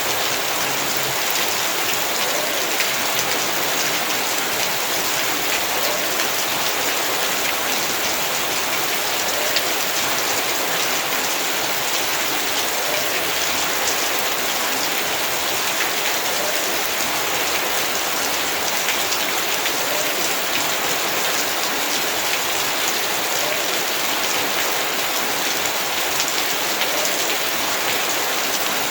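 Heavy rain falling steadily, with many close drops pattering on surfaces.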